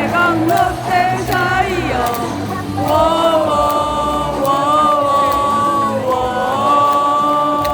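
Baseball stadium crowd singing a team cheer song together over the stadium's amplified music. Short chanted phrases give way about three seconds in to long held sung notes.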